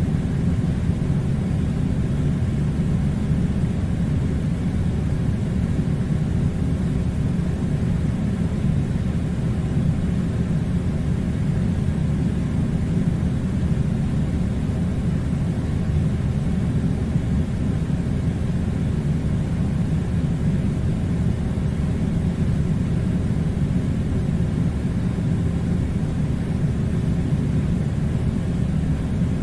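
Air conditioner running with a steady, unchanging low rumble.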